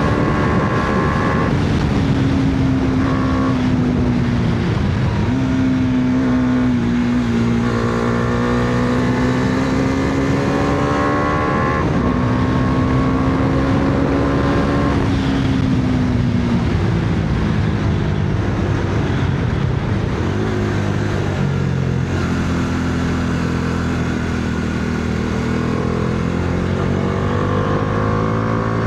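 Bajaj Dominar 400's single-cylinder engine under way, its pitch climbing and dropping several times with throttle and gear changes through the curves, over a steady rush of wind and road noise.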